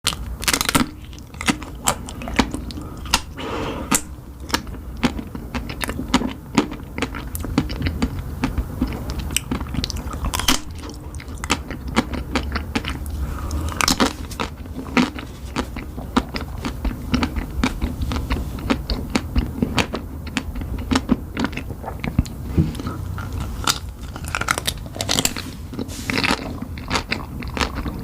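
Close-miked biting and crunchy chewing of a Dubai chocolate bar: chocolate filled with pistachio cream and crisp kataifi pastry. Dense, irregular sharp crunches and crackles run throughout.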